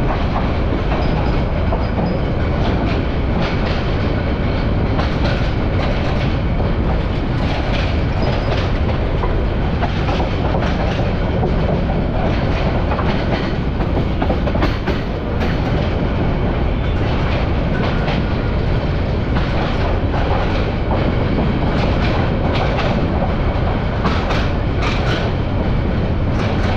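Bangladesh Railway passenger train running along the track, heard from aboard the carriage: a steady rumble with the wheels clacking and knocking irregularly over rail joints.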